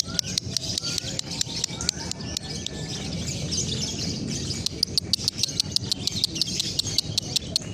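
Female lovebird chattering in rapid, sharp high chirps, several a second, in the erratic 'konslet' style that it is learning.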